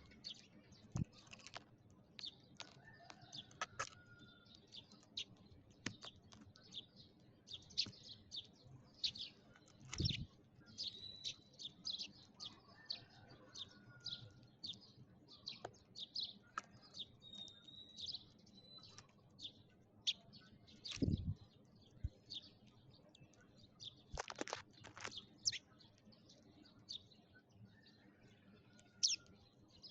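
A flock of sparrows chirping: many short, quick chirps overlapping, with a few longer whistled notes. A few dull thumps and one louder sharp click about three quarters of the way through.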